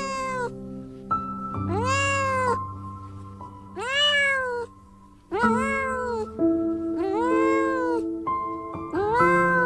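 A cat meowing over and over, about six drawn-out meows, each rising and then falling in pitch, roughly one every one and a half seconds. Soft background music with long held notes plays underneath.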